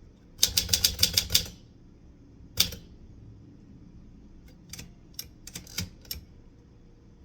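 Typewriter keys striking paper: a quick run of about eight keystrokes, a single harder strike about a second later, then a few scattered lighter clicks.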